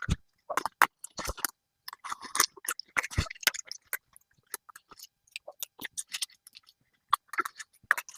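Collard green leaves being picked from the plant and handled: an irregular string of short, crisp crackles and snaps with brief pauses between them.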